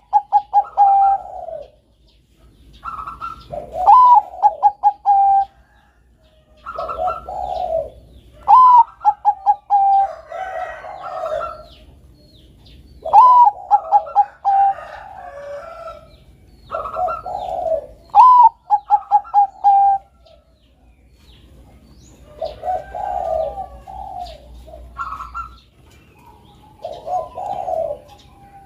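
Zebra dove (perkutut, Bangkok singing strain) cooing its song over and over, a phrase every few seconds. Each phrase opens with a high note, drops into a lower warble and ends in a quick run of short clipped coos.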